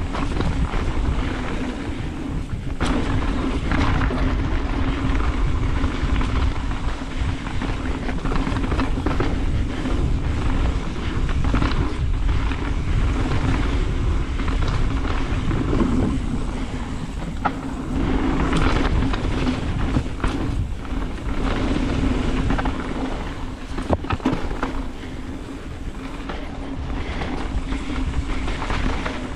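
Mountain bike descending a dirt trail at speed: tyres rumbling over the ground and the bike rattling, with many small knocks as it hits roots and rocks.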